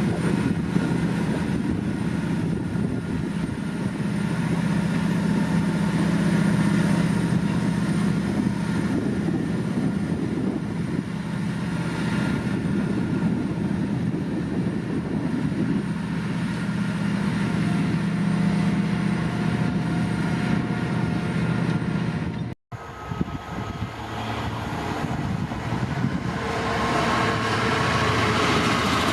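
Diesel-hauled freight train passing, the locomotive engine running with a steady low drone over the rumble of the wagons. About three-quarters of the way through the sound cuts off abruptly to another passing train.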